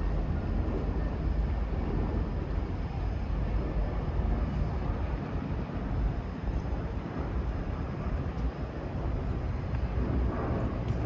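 Outdoor city ambience: a steady low rumble with no single event standing out.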